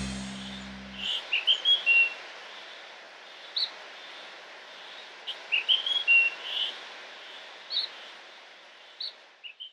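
Birds chirping in short scattered bursts of a few quick notes over a steady hiss of outdoor ambience, fading out near the end. A music chord dies away in the first second.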